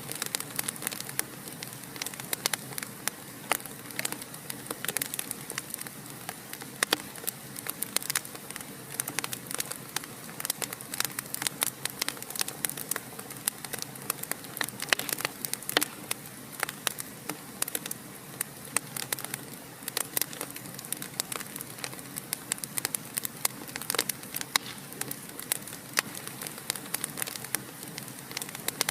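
Fireplace fire crackling: irregular sharp snaps, several a second and some louder than others, over a soft steady hiss.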